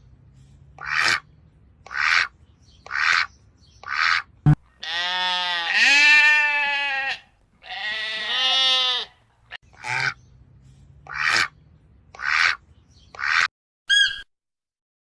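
Goat bleating: two long, wavering calls of about two and a half and one and a half seconds. Around them are short noisy bursts that come about once a second, and a brief high-pitched call near the end.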